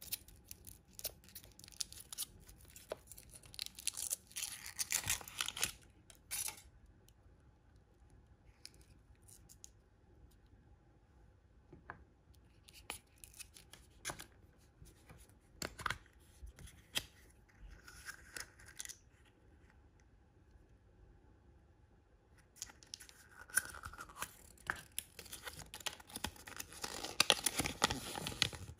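Toy packaging being torn and cut open, with crinkling rustles and small clicks. The longest bursts of tearing come about four to six seconds in and again through the last five seconds.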